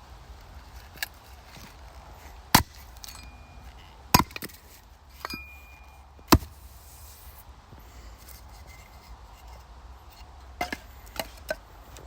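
Axe chopping scrap wooden boards: three hard strikes a second or two apart, with lighter knocks of wood in between and a few more near the end.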